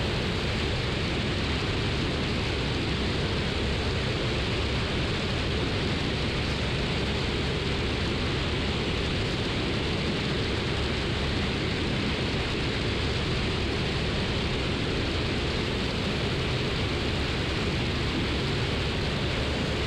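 Steady cabin noise of a Cessna 172 in flight on final approach: engine and propeller drone with airflow, heard as an even hiss that does not change.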